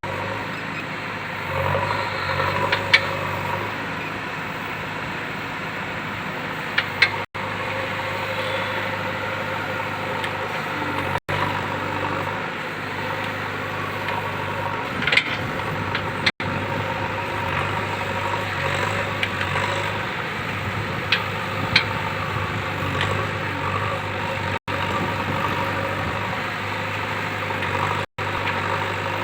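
JCB 3DX backhoe loader's diesel engine running steadily, with a few sharp metallic clanks now and then.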